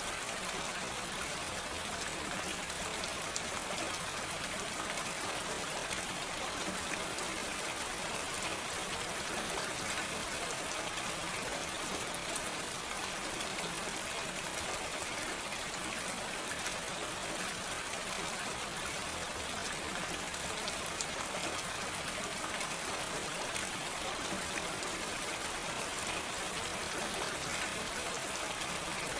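Steady gentle rain falling with no thunder, a dense patter of drops striking a surface.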